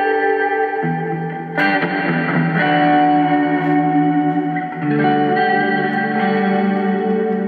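Electric guitar played through a Zoom G3Xn multi-effects pedal on a Bogner amp simulation. It plays sustained, ringing chords that change about a second in, again with a sharp strum half a second later, and once more near the end.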